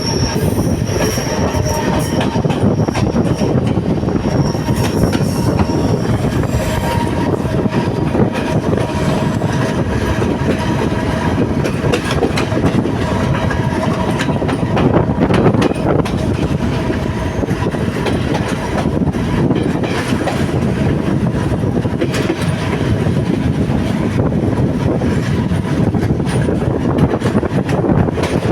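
Sri Lanka Railways Class S11 diesel multiple unit running on the rails, a loud steady rumble with scattered wheel clicks. A high wheel squeal sounds over the first several seconds, then fades.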